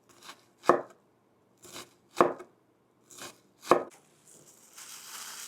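Kitchen knife chopping onion on a cutting board: six sharp strokes, falling roughly in pairs, then a soft rustle from about four seconds in.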